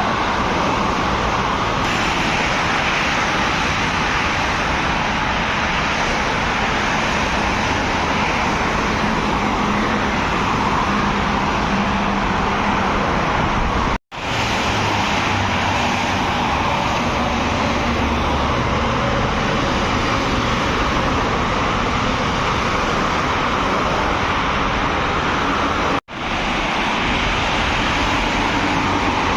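Steady road traffic noise of heavy vehicles driving past. It drops out abruptly for a split second twice.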